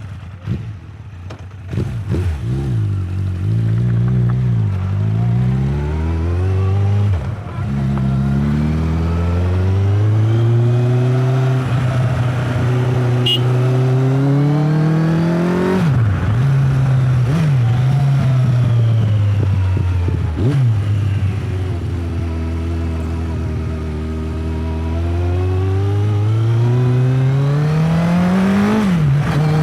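Motorcycle engine running under way, its pitch climbing as it accelerates and dropping sharply at each gear change, about halfway through and again near the end, then easing off and climbing again.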